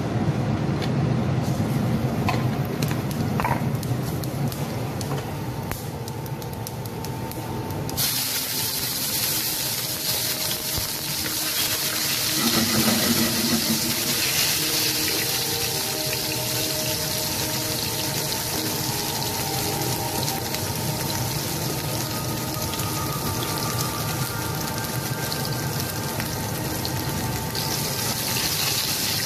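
Hot oil in a frying pan bursting into a loud sizzle about eight seconds in as chopped ginger and green chilies go in, then frying steadily while stirred with a spatula. Before that, only a low hum with a few clicks.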